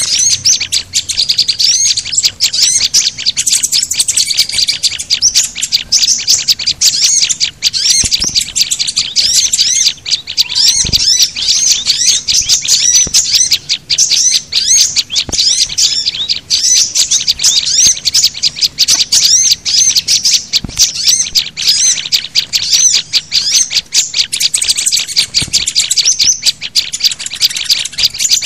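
Small songbirds chirping and twittering rapidly and without a break, in a bird-lure recording that mixes calls of white-eyes, prinias, sunbirds and flowerpeckers. A few faint low knocks sound now and then.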